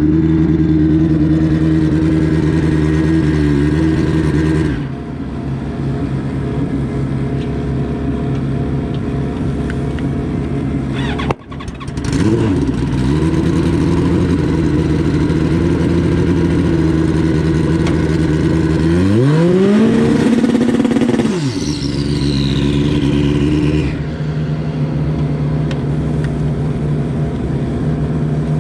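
Turbocharged Pro Street drag-racing motorcycle engines running loudly at a steady idle, with one sharp rising rev about two-thirds of the way through. The sound changes abruptly a few times.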